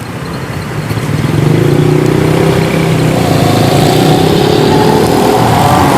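A motor vehicle engine running close by, growing louder over the first second and a half, then holding loud with its pitch rising slowly as it accelerates.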